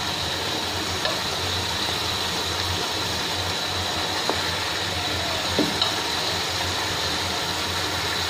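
Chicken pieces frying in oil and masala in a non-stick pot, a steady sizzle, with a few light clicks of metal tongs against the pieces and the pot.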